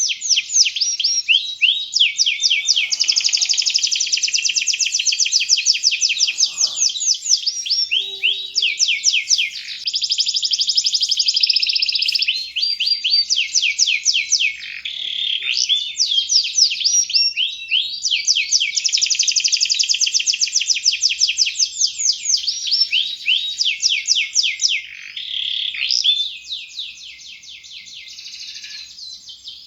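Domestic canary singing continuously in long, rapid, high-pitched trills and rolls, with only brief breaks between phrases. The song drops to a quieter, thinner stretch for the last few seconds.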